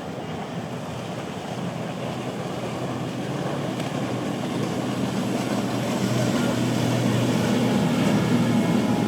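Motorboat engines running as a boat comes through the inlet, a low steady hum over a wash of wind and water noise that grows steadily louder as the boat approaches.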